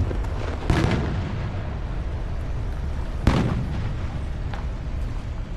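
Fireworks shells bursting overhead: two loud booms about two and a half seconds apart, each with a rolling echo, and fainter pops between and after.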